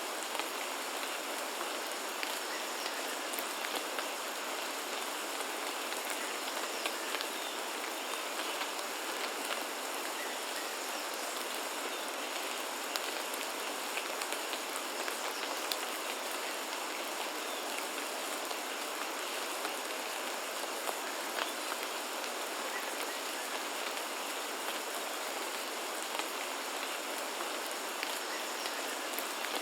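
Steady rain falling, an even hiss dotted with the sharp ticks of individual drops landing, with almost no deep rumble beneath it.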